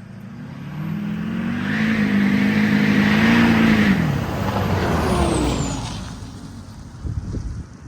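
A motor vehicle passing by: its engine note swells, drops in pitch as it goes past, then fades away. A few faint knocks follow near the end.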